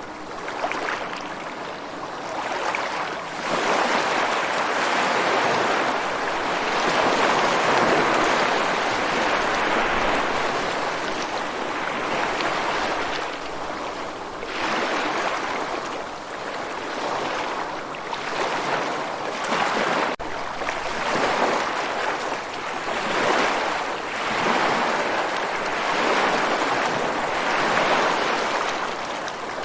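Ocean waves breaking and washing on a shore, a steady surf that swells and ebbs every few seconds.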